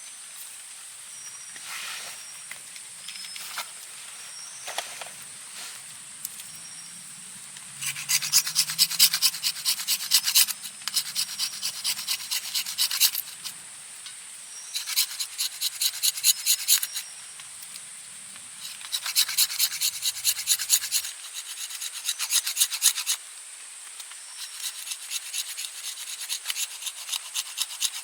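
Hand tool rasping on wood in bursts of quick, rhythmic strokes, several seconds at a time with short pauses between, after a few single knocks early on. A steady high insect drone runs underneath.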